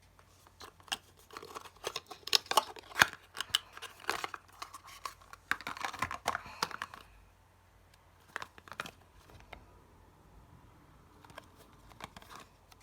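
Packaging being handled and torn open: a dense run of crinkling, crackling and tearing for the first seven seconds, then a few scattered clicks.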